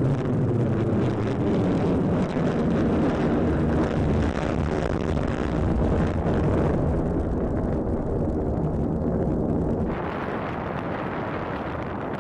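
F-35A Lightning II's F135 afterburning turbofan engine passing as a loud, deep, ragged rumble. About ten seconds in the sound changes abruptly to a slightly quieter, thinner rumble.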